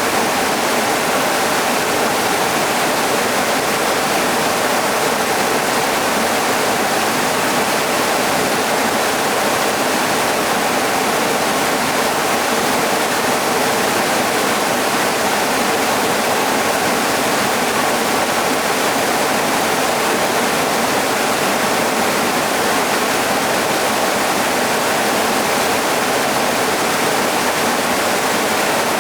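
Waterfall rushing steadily over rock, a constant dense hiss of falling water.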